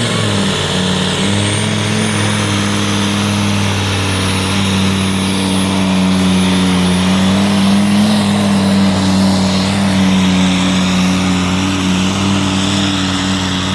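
Mercedes V10 engine of a tractor-pulling machine running loud under load at high, nearly steady revs, a deep even drone with small dips and rises in pitch.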